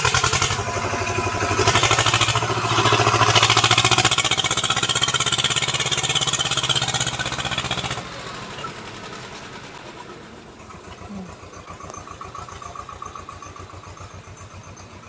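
Swaraj 724 XM tractor's diesel engine running loud with rapid, even firing pulses, then dropping abruptly to a quieter, steady run about eight seconds in.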